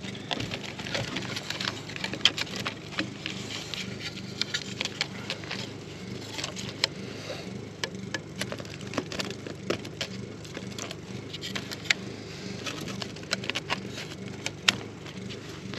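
Irregular light clicks, knocks and scrapes of wooden beehive frames and wax comb being handled and set into the hive box.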